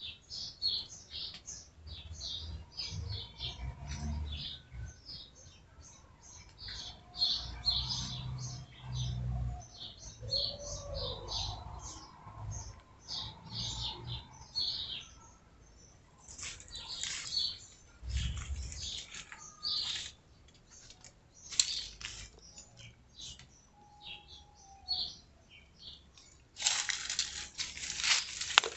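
Small birds chirping with many short, high calls, over a low rumble that comes and goes. Near the end a loud burst of rustling hiss covers them.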